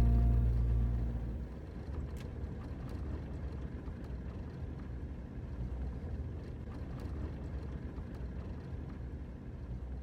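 A vehicle running along the road: a steady low rumble with a few faint clicks, as the closing music fades out in the first second or so.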